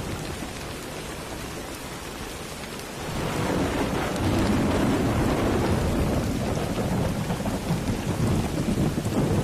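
Steady rain falling, with a long low rumble of thunder that swells in about three seconds in and carries on, louder, to the end.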